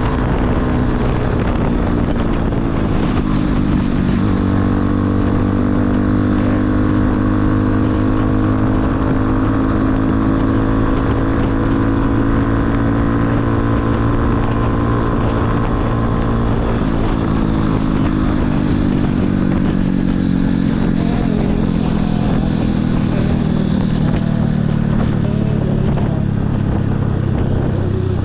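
Motorcycle engine running under way, its note stepping in pitch about four seconds in and again around seventeen seconds, with wind rushing over the microphone.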